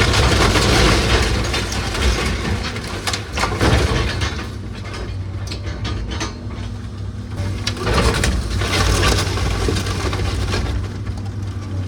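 An old house's rotten timber and roofing cracking and crunching as it is torn apart, in three bursts about a second in, around four seconds and around eight to nine seconds, over an engine running steadily.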